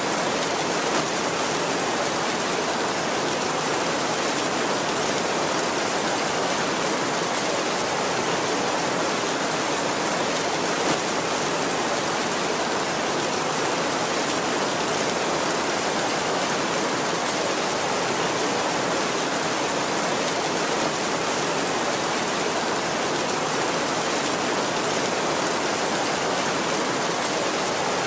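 Heavy rain falling steadily on a tin roof: an even, unbroken hiss of drumming drops.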